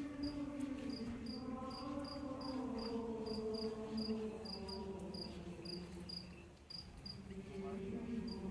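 Crickets chirping in a steady rhythm, about two to three chirps a second, over voices singing long, slowly changing held notes.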